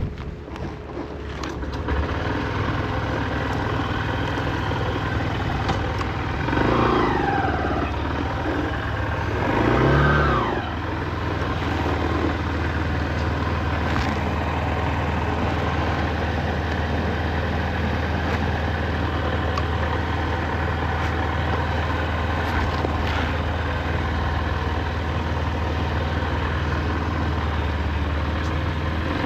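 A 2024 Honda CB125F's 124 cc single-cylinder engine running on the road, heard from the rider's seat. It grows louder over the first two seconds, swells twice as it accelerates around the middle, then holds a steady drone. It is kept at low revs because the new engine is being run in.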